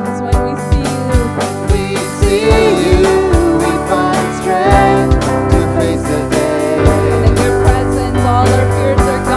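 Worship band music: sustained keyboard chords over a steady drum beat of about two beats a second, with a voice singing a wavering melody line.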